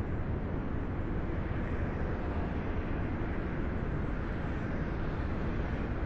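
Steady low rumbling noise, even and unchanging, with no clear tone or rhythm.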